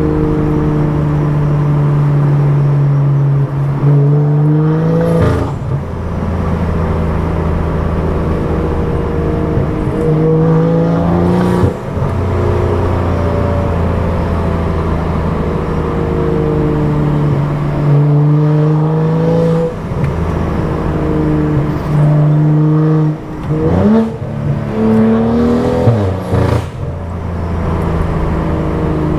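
Tuned BMW F10 535i's turbocharged 3.0-litre inline-six through a loud aftermarket exhaust, cruising steadily and then pulling hard several times. Each pull rises in pitch and is cut off abruptly as the car shifts or lifts.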